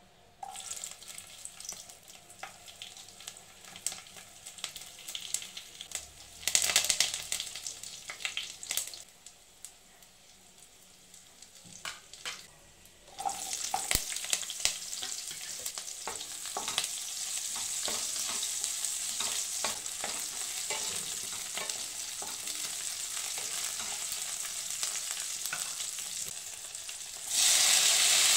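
Garlic, then shallots, dried red chillies and curry leaves frying in hot oil in a kadai and being stirred, crackling and spitting with scraping clicks. The sizzle becomes steadier about halfway, once the shallots are in. Near the end it jumps suddenly louder as chopped tomatoes hit the oil.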